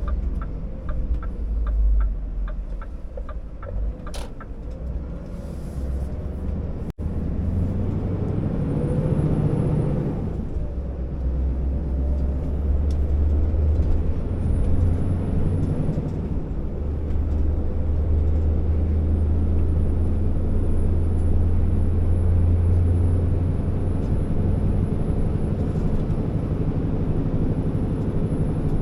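Scania R650 timber truck's V8 diesel engine running with a steady deep drone that grows louder from about eight seconds in. A regular ticking sounds over it in the first few seconds, and the sound cuts out for an instant around seven seconds in.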